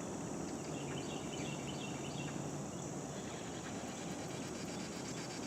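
Steady high insect chorus, with a short run of faint high chirps in the first half.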